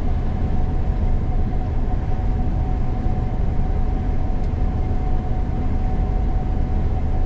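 Gleaner combine running steadily while harvesting soybeans, heard from inside the cab: a constant low rumble with a steady whine over it.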